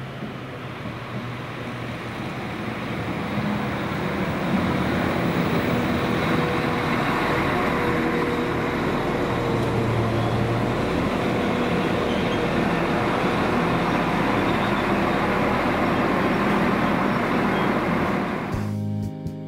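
Northern Class 195 diesel multiple unit drawing into the platform: a diesel engine hum with rumbling wheel and rail noise, growing louder over the first few seconds as it comes alongside and then holding steady. About a second before the end it cuts abruptly to guitar music.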